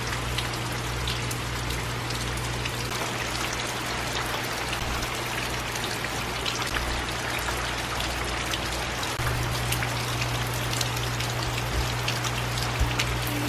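Steady rain falling, with many sharp drops splashing as water drips off the roof eaves and gutter.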